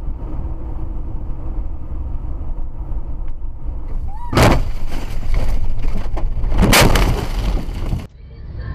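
Steady road and engine rumble from a car, broken by two loud crashing bangs about two seconds apart, typical of a vehicle collision.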